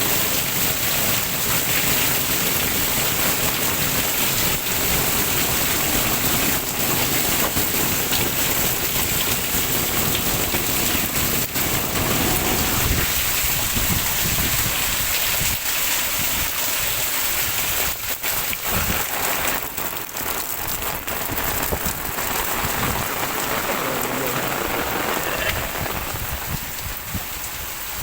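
Super heavy rain pouring steadily, a dense hiss of rain beating on surfaces that eases a little in the last few seconds.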